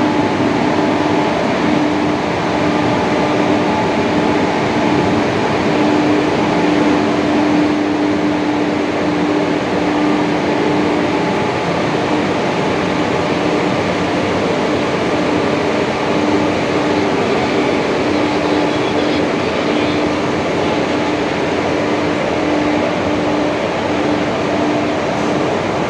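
WAP-4 electric locomotive pulling its train out of the station past the platform, followed by coaches and parcel vans rolling by with a steady rumble of wheels on the rails and a steady hum underneath.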